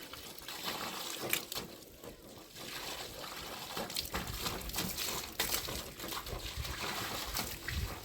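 Water trickling and splashing, with scattered short splashes or knocks.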